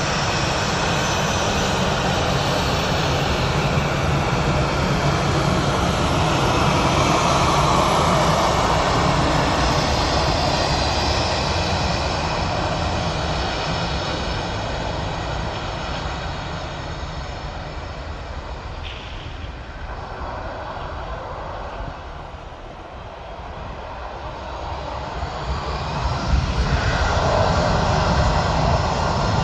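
Jet engines of an Airbus A320-211 (CFM56 turbofans) running loudly, a dense rumble and hiss. The sound swells about eight seconds in, fades to its lowest a little past twenty seconds, then grows loud again near the end.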